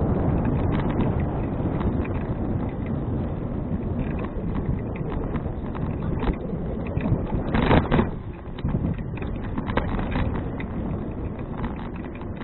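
Wind buffeting an action camera's microphone on a moving 2012 Fuji Touring bicycle, with many small clicks and rattles from the bike over a rough surface. There is a short louder burst just under eight seconds in.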